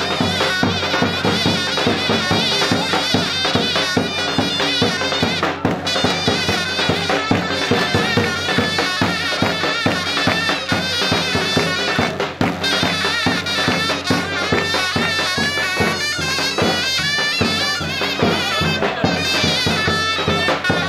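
Loud traditional folk music: a shrill reed wind instrument plays a wavering, ornamented melody over steady drum beats.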